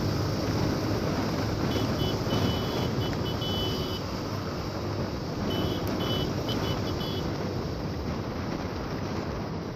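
Motorcycle riding in traffic: steady engine hum under wind and road noise on the microphone. Two spells of quick high-pitched beeping come on top, about two seconds in and again around six seconds.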